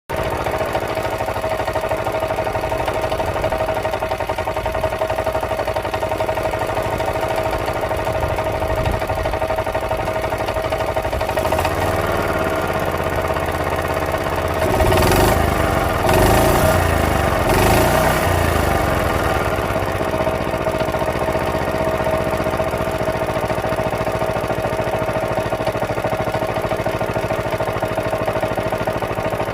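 Vintage Suffolk stationary engine running steadily on its stand. It gets louder for a few seconds around the middle, with its pitch shifting, then settles back to an even run.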